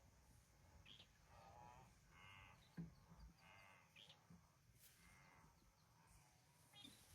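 Faint, high-pitched bleating cries, three short wavering calls in a row, from the small prey animal the leopard is toying with.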